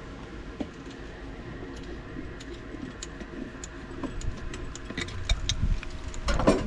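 A steady low mechanical hum under scattered light clicks and clinks, which come more often in the second half, with a short louder burst near the end.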